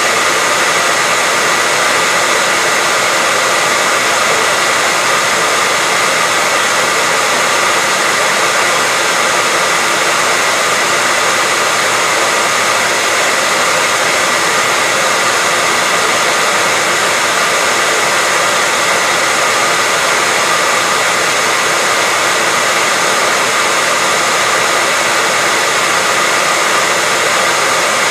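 A hair dryer running steadily on one setting: an even, constant whooshing hiss with a faint high whine, used as white noise for a baby's sleep.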